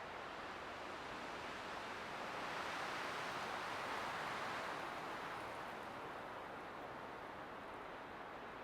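Light wind blowing, a soft steady rush that swells into a gentle gust a few seconds in and then eases back.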